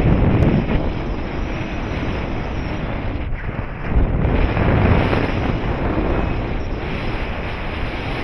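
Airflow of a paraglider flight rushing over the microphone, a loud wind buffeting that swells at the start and again about four seconds in.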